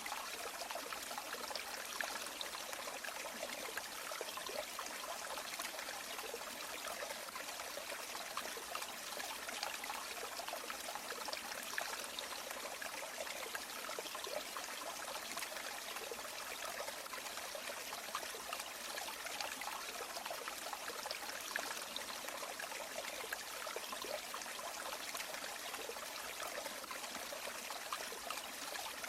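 A river or stream flowing steadily, with a continuous rushing and babbling of water and no pauses.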